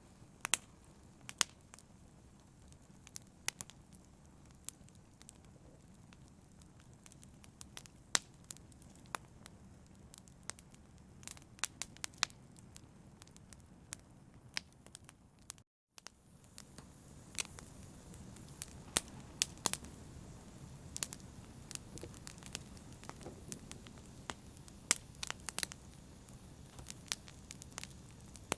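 Campfire crackling: irregular sharp pops and snaps over a steady low hiss of burning flame. The sound drops out completely for a moment about halfway through.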